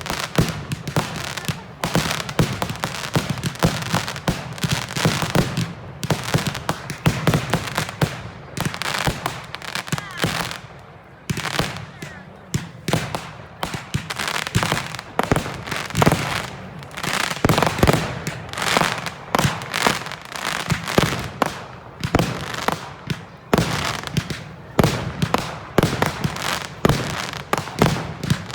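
Firework display: a dense, continuous run of bangs, pops and crackles from shells bursting, several a second, with no let-up.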